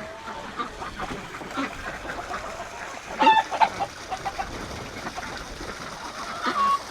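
Chickens clucking and calling as they come out of the coop, with a louder short call about three seconds in and another near the end.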